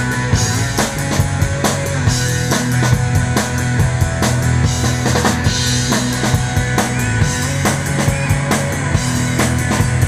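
Live rock band playing an instrumental passage between sung lines: drum kit keeping a steady beat with bass drum and snare, over sustained bass and electric guitar.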